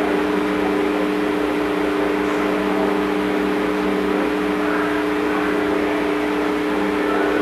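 A steady droning hum of a few fixed tones over an even hiss, holding the same level throughout.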